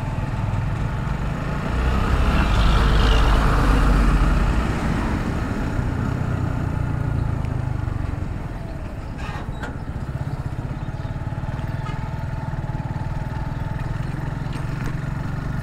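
Motorcycle riding on a road: the engine runs steadily under a noisy rush of traffic. There is a louder low rumble between about two and five seconds in.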